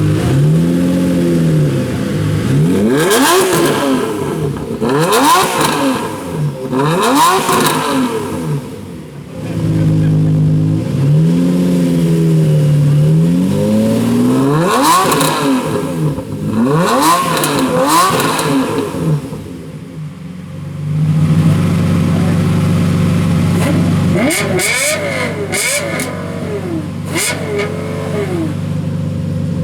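A Lexus LFA's V10 and a Lamborghini Murciélago's V12 with a Tubi aftermarket exhaust revved hard while standing still. Repeated sharp rev blips climb and fall in pitch between stretches of idle, with a flurry of short, quick blips near the end.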